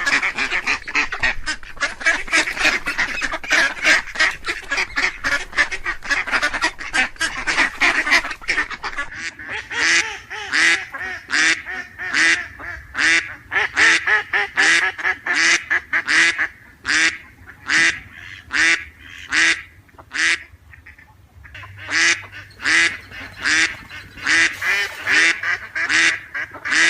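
Ducks quacking in a rapid run of short calls, crowded and overlapping for the first several seconds, then settling to about two quacks a second, with a short break about twenty seconds in.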